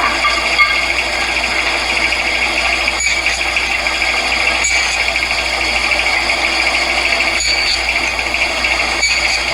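Bandsaw running steadily, clipping the corners off wooden beehive frame top bars held in a miter-gauge jig, with a brief cut through the wood every couple of seconds.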